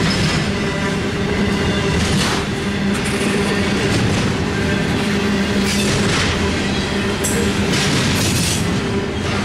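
Double-stack intermodal container well cars of a freight train rolling past: a steady rumble of steel wheels on rail, with a few brief louder bursts of wheel noise.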